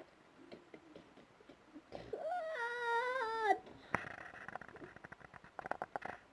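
A child's drawn-out, wavering voiced sound effect, a whine-like cry lasting about a second and a half, followed by a sharp click and a rapid run of small plastic clicks and taps from Lego figures being knocked about in play.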